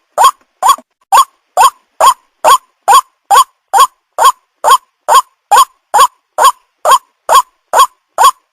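White-breasted waterhen (Amaurornis phoenicurus) calls played as a lure: short upward-sweeping 'ruak' notes repeated steadily at a little over two a second.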